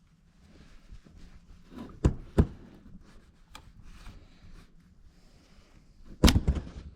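Handling knocks: two sharp knocks close together a couple of seconds in, faint rubbing and scraping between, and a louder clatter of knocks near the end.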